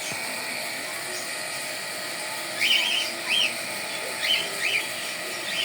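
A bird calling: two pairs of short high notes, the pairs about a second and a half apart, over a steady background hiss.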